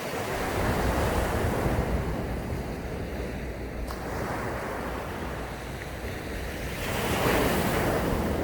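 Sea waves breaking on a sandy beach, the surf swelling to a crash about a second in and again near the end, with the hiss of water washing up the sand between. Wind buffets the microphone with a low rumble.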